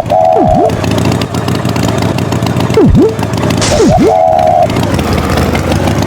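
Cartoon tractor engine sound effect running steadily, with a short two-tone horn beep near the start and again about two-thirds through, and three quick swooping sound effects that dive down in pitch and spring back up.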